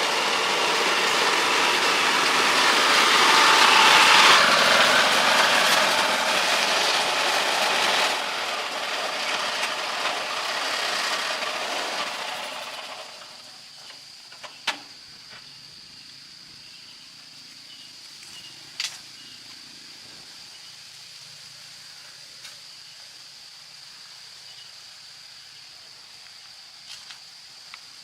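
A motor vehicle running, loudest about four seconds in, then fading away after about thirteen seconds. After that there is a quieter outdoor background with a steady high whine and a few sharp clicks.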